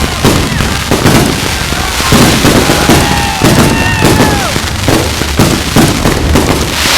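Consumer fireworks going off in quick succession, a dense run of bangs and crackles with no break.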